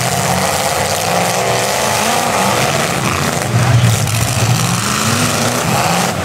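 Several demolition derby cars' engines running and revving at once, their pitch rising and falling as the cars manoeuvre, louder about three and a half seconds in.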